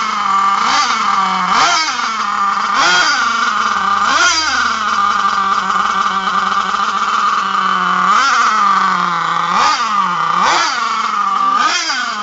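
Small .46 nitro engine of an HPI Savage RC monster truck being revved hard: quick throttle blips that rise and fall back to a high idle about once a second, with a sustained high-rev run in the middle before the blips resume.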